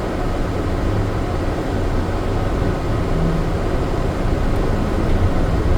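Steady low rumble and hiss of an airport people-mover train car in motion, heard from inside the car.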